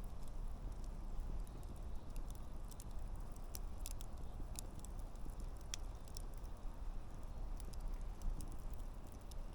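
Wood campfire burning, with a steady low rush of the flames and frequent sharp crackles and pops of the burning logs scattered irregularly throughout.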